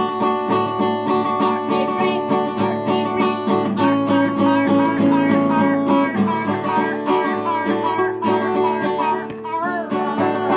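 Acoustic guitar strummed in a quick, steady rhythm, with other instruments playing a tune over it.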